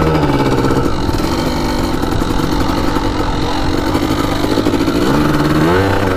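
1993 Kawasaki KDX200 single-cylinder two-stroke dirt-bike engine running at low speed while warming up as the bike is ridden slowly. The revs rise and fall near the end.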